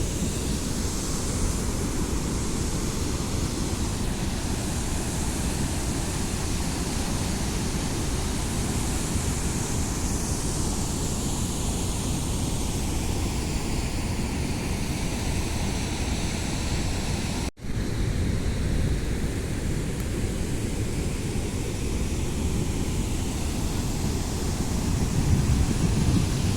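Steady rush of a waterfall, heavy in the low end, with wind buffeting the microphone. The sound breaks off for an instant about two-thirds of the way through, then resumes unchanged.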